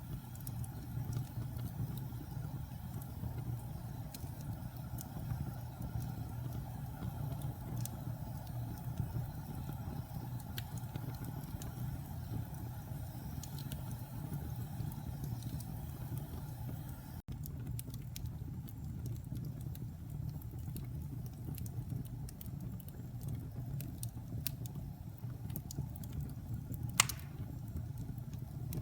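Wood fire burning in a fireplace: a steady low rumble of the flames with scattered small crackles, and one sharper pop near the end.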